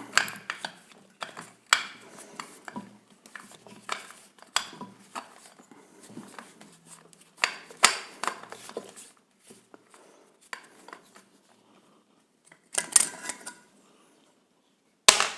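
Small metal parts and tools clinking and knocking as they are handled on a hard work surface, in irregular taps and clatters, with a louder cluster of clinks a little before a short quiet stretch near the end.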